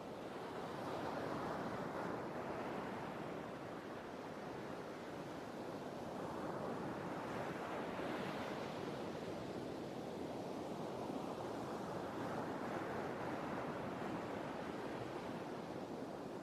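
Sea waves washing in: a steady rushing surf that swells and eases every few seconds.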